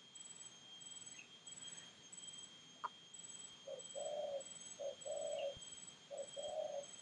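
A bird cooing three times, each phrase a short note followed by a longer one, starting about three and a half seconds in.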